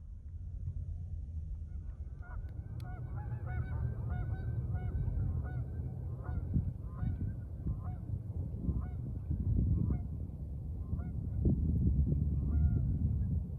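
A flock of geese honking: many short calls, overlapping and repeated, over a steady low rumble.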